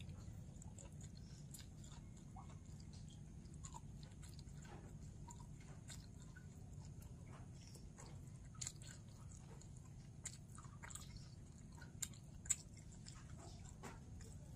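A person chewing and biting food with small wet mouth clicks, a few sharper crunchy clicks in the second half.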